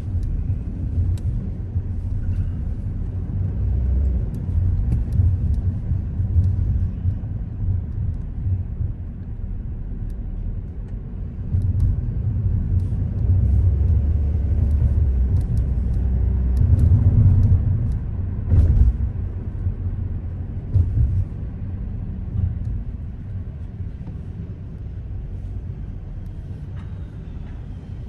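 A car driving, its engine and tyres giving a low rumble that swells louder around the middle, with a sharp knock soon after and scattered faint ticks.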